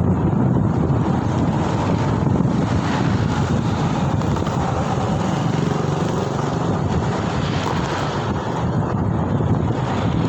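Steady wind rushing over the microphone of a moving scooter rider, with road and traffic noise underneath.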